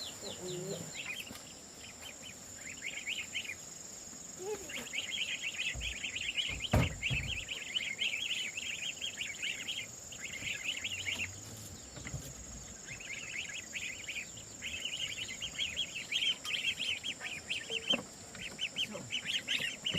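Birds chirping in rapid runs of short, high notes, in spells of a few seconds with short breaks, over a steady high-pitched whine. A single sharp knock comes about seven seconds in.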